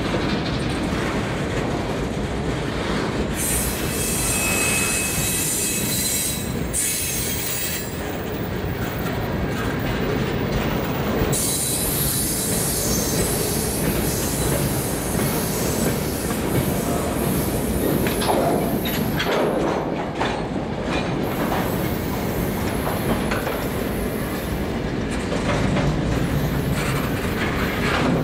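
Freight cars of a passing mixed freight train rolling by close at hand, steel wheels clattering steadily on the rails. A faint high wheel squeal rings out for a couple of seconds a few seconds in.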